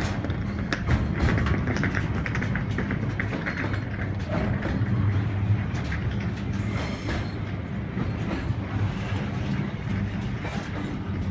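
Container freight train's flat wagons passing at close range: a steady rumble of wheels on the rails with many sharp clicks running through it.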